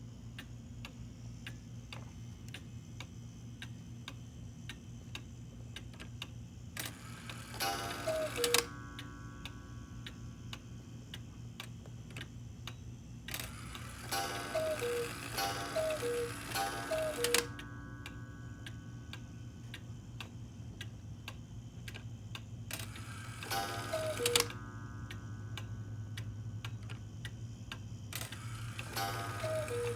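Antique Black Forest cuckoo clock ticking steadily, its cuckoo sounding in four short bursts of repeated two-note falling calls.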